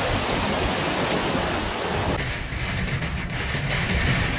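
Typhoon storm noise of wind and driving rain or surf, a steady hiss and rumble that changes about two seconds in to a duller, lower rumble.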